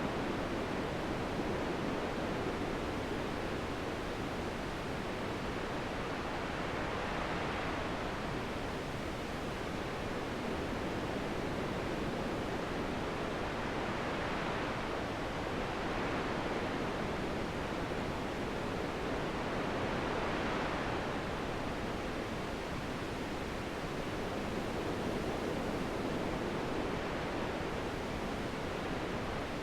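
Wind blowing steadily, rising and falling in slow, gentle gusts.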